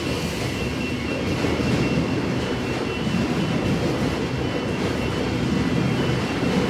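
Electric suburban train pulling into the platform, a steady rumble of wheels and motors with a few faint high tones over it.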